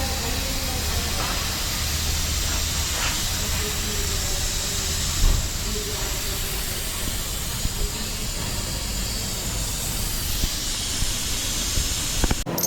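A steady hiss over a low hum, which cuts off suddenly near the end.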